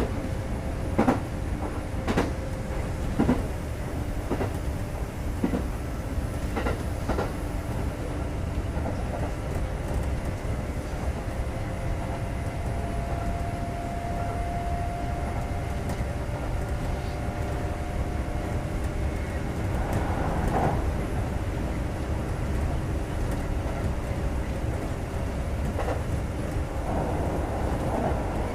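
Kintetsu 2430-series electric train running, heard from inside the car: a steady rumble, with wheels clicking over rail joints about once a second for the first several seconds, then a smoother run.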